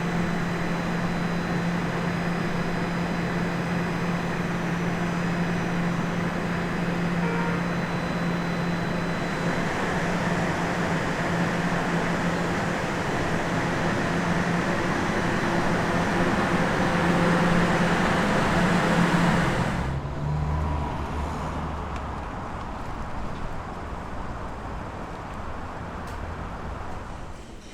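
Bombardier Toronto Rocket subway train running between stations: a steady rumble of wheels and track with a low hum. About twenty seconds in the noise drops suddenly and the run goes on more quietly.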